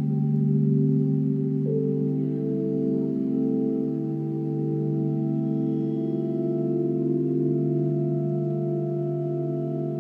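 Electronic drone from an interactive sound installation: layered, sustained organ-like tones, with the upper notes shifting about two seconds in.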